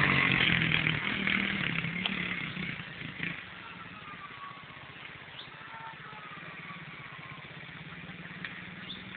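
Small 110cc dirt bike engine running, loud at first and fading over the first three seconds as the bike moves away, then heard faintly, its pitch rising and falling as it is revved.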